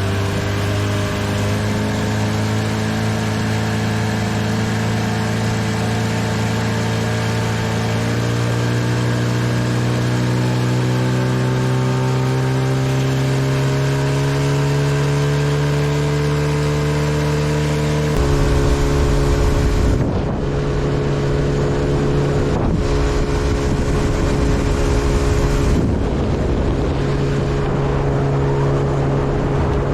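Tarpon 9.9 outboard motor running under way on an inflatable boat, its note climbing slowly as the boat gathers speed. About two-thirds through the sound changes abruptly to a steady engine note under a rough rushing noise with gusts.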